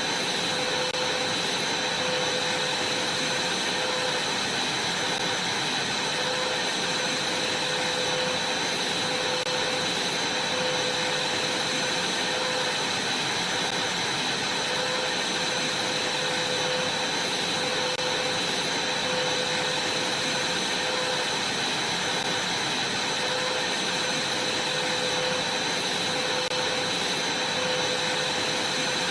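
Vacuum cleaner running steadily, a constant rushing of air with a high, steady whine.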